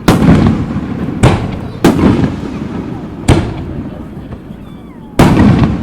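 Aerial fireworks shells bursting overhead: five loud booms, irregularly spaced, each trailing off in a rumbling echo. The last comes about five seconds in, after a short lull.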